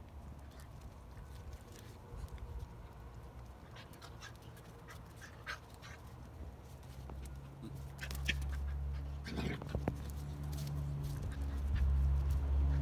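Andalusian ratter (bodeguero andaluz) puppies play-fighting, with short squeaks and yips scattered through. A steady low hum comes in about two thirds of the way through and grows louder.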